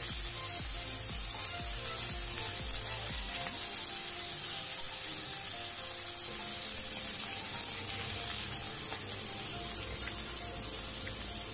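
Cubed bottle gourd frying in hot mustard oil in a nonstick kadai: a steady sizzle, with faint background music.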